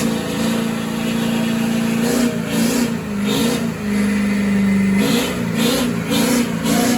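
Engine held at high revs during a burnout. It drops to a lower steady pitch for about a second, then is blipped up and down roughly twice a second near the end.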